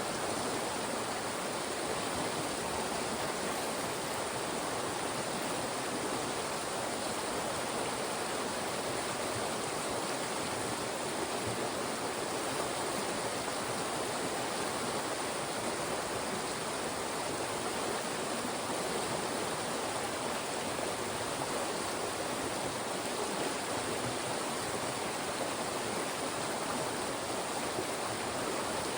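Fast-moving mountain stream rushing steadily over and between rocks, where the channel narrows and speeds the water up.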